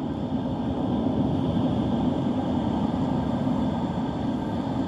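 Steady low rumble of wind and surf on a beach under the outer weather of Hurricane Helene, with no breaks or distinct events.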